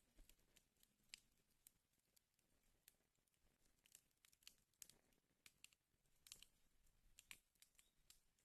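Wood fire burning in a fireplace, crackling faintly with irregular sharp pops and snaps over a soft low rumble.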